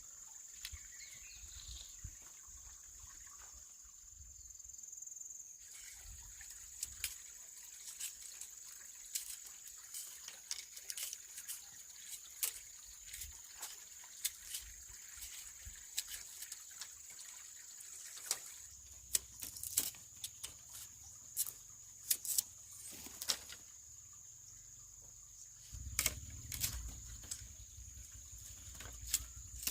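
Steady high-pitched insect drone with scattered light clicks and knocks from handwork. A low rumble comes in about two-thirds of the way through.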